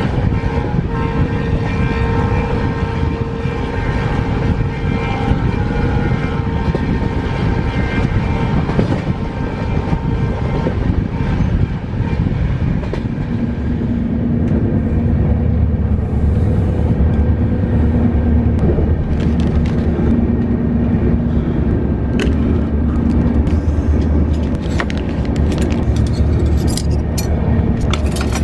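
A passenger train running along the track: a steady rumble of wheels on rail, with a low hum that grows stronger about halfway through and a few sharp clicks near the end.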